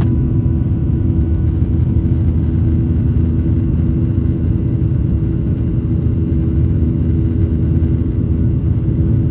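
Boeing 737-900's CFM56-7B jet engines running at high power during takeoff, a loud, steady rumble with a constant low drone.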